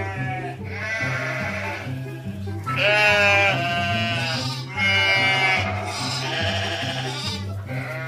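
Sheep bleating again and again, about six wavering calls of around a second each, the loudest about three seconds in, over background music with a low repeating bass line.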